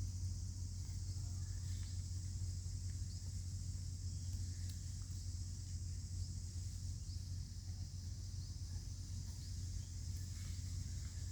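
Steady outdoor ambience: an even, high-pitched insect drone over a steady low hum, with a few faint clicks and ticks.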